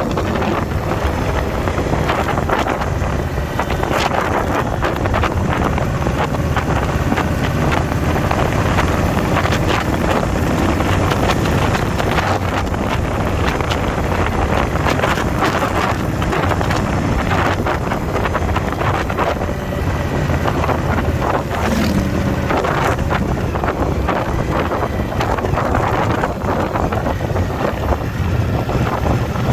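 Indian V-twin motorcycle riding at road speed: steady wind rushing over the microphone on top of the engine's low drone, with a few scattered clicks.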